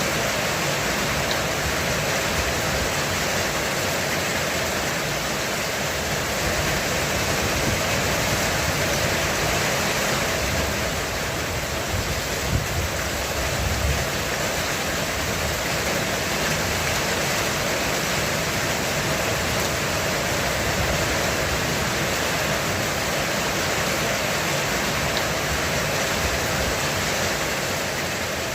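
Heavy rain falling on a roof, a steady dense hiss. About halfway through, a brief low rumble of thunder.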